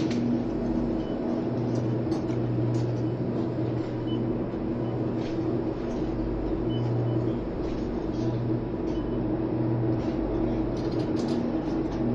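Supermarket ambience: a steady low hum of store machinery with scattered faint clicks and rattles.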